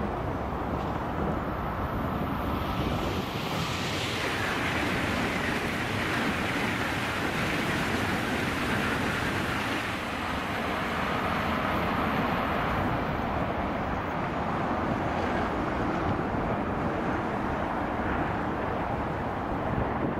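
Eurostar high-speed electric train passing at speed: a long rushing of wheels and air that swells about four seconds in and eases off near the end, over a steady hum of road traffic.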